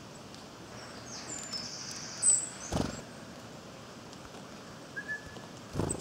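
Small woodland birds giving thin, high calls and short sliding notes, loudest a little over two seconds in, with a brief lower call at about five seconds. Two short thumps, one near three seconds and one just before the end.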